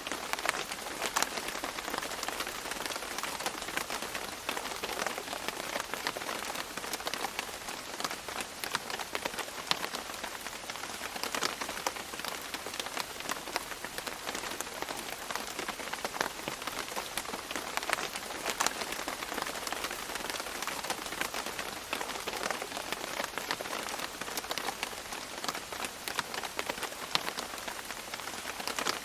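Steady rain falling on leaves, a dense hiss of drops with many separate drips ticking through it.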